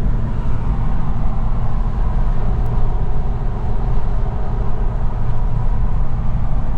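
Steady road and engine noise of a car driving along, heard from inside its cabin: an even low rumble.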